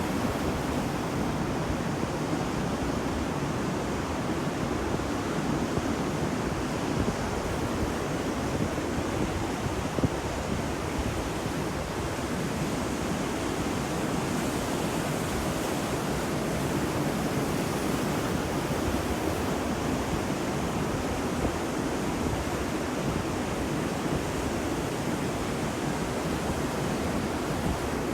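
Ocean surf washing on a beach: a steady rushing noise of breaking waves, with little rise and fall.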